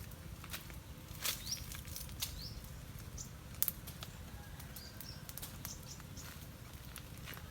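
Outdoor ambience: a steady low rumble with scattered sharp clicks and a few short, high, rising bird chirps.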